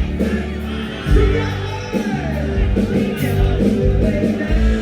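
A live band playing a song: a singer over a bass line and chords with a steady beat, amplified loud.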